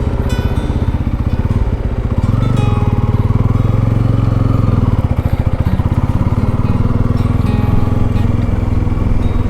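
Motorcycle engine running while riding, its low pulsing getting louder about two seconds in.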